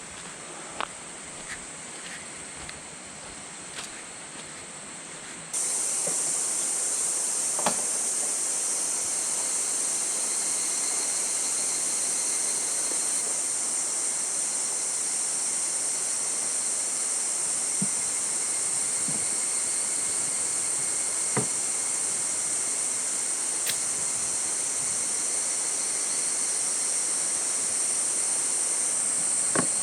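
Steady high-pitched chorus of insects, getting abruptly louder about five seconds in, with a few light scattered clicks and knocks.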